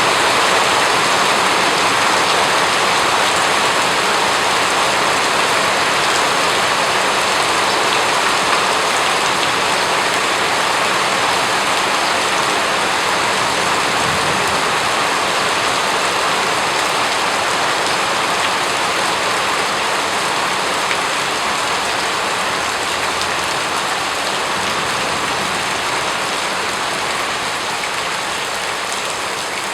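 Steady, dense rain falling on a surface, an even hiss of raindrops with no let-up.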